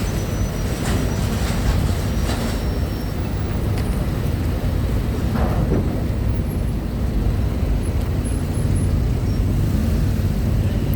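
Steady low rumble of heavy vehicle engines running, with a few faint knocks over it.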